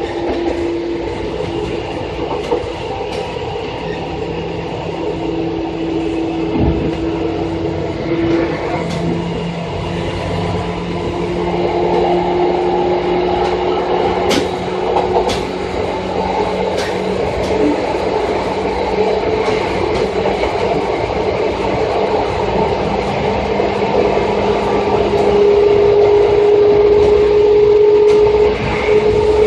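Electric commuter train, set 2453F, running: a steady motor and gear whine over rolling rumble, with a few sharp rail-joint clicks near the middle. The whine slowly climbs in pitch and the sound grows louder toward the end as the train gathers speed.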